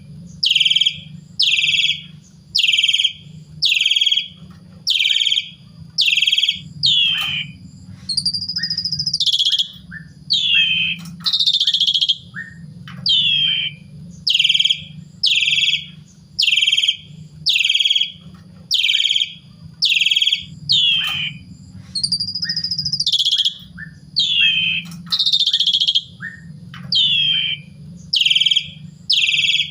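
Asian pied starling (jalak suren) calling loudly over and over. Short downward-sweeping notes come about once a second, and a few longer drawn-out notes are mixed in.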